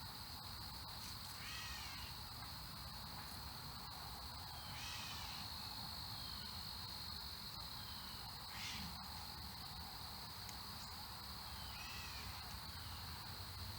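Steady, high-pitched insect trill, typical of crickets, with a few short falling bird chirps over it.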